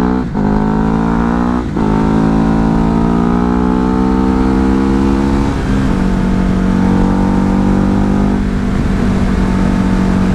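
Ducati Hypermotard's V-twin engine heard from the saddle while accelerating through the gears. Two quick upshifts come in the first two seconds, the pitch climbing after each. It then pulls on more gently and settles into a steady cruise, with wind rumbling on the microphone.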